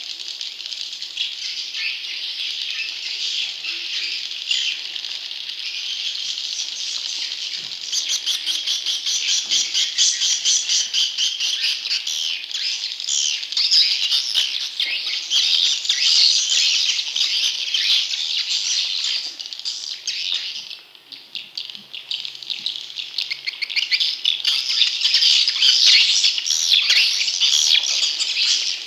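Swiftlet chicks calling in a dense, continuous high buzzing chatter. Rapid clicking joins in about a third of the way through, and the chatter thins briefly about two-thirds in. This is a lure recording meant to attract wild swiftlets.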